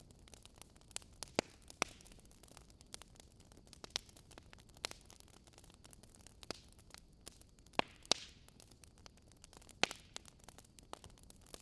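Wood fire burning, crackling with irregular sharp pops over a soft steady hiss. The loudest pops come about a second and a half in, around eight seconds in, and near ten seconds.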